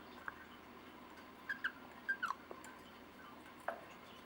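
Pet cockatiel giving a handful of short, soft chirps with falling pitch, spread out over a few seconds.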